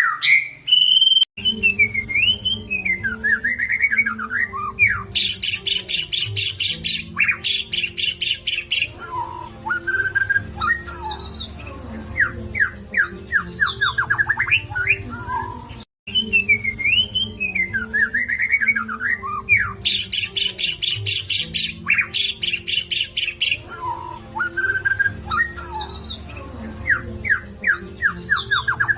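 White-rumped shama singing in full voice: varied whistled phrases with sweeping notes, a fast buzzing rattle, and runs of quick falling notes. The same song passage of about 15 seconds plays twice, a looped recording, over a low steady hum.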